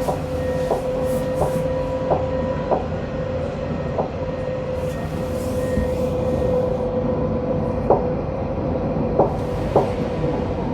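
Tram running between stops, heard from on board: a steady whine from the drive over a low rolling rumble. The wheels click over the track, regularly at first, about every two-thirds of a second, then only now and then.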